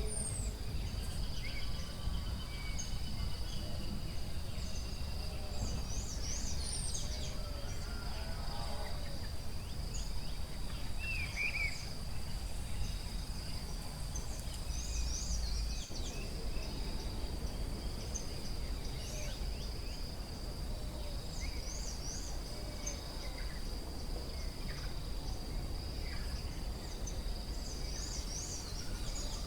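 Forest ambience: a steady high insect drone throughout, with many short, scattered bird chirps and calls over it and a low rumble underneath.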